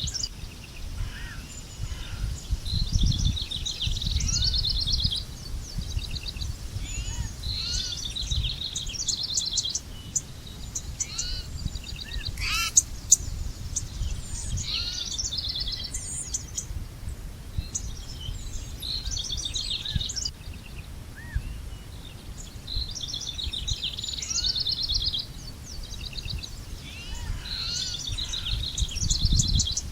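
Songbirds singing: one bird repeats a short, rapid trilled phrase every three to four seconds, with fainter short chirps from other birds between its phrases. A low rumble runs underneath, and there is a sharp click about thirteen seconds in.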